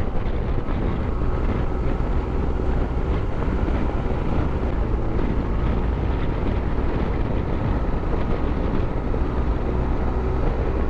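Motorcycle engine running at a steady cruise, with wind and road noise over the microphone.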